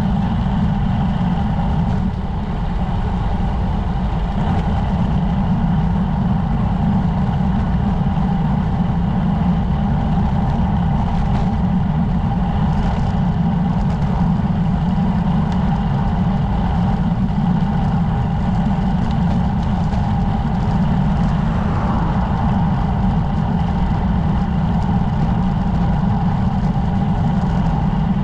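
Steady wind rush and road rumble on a camera carried on a moving road bicycle.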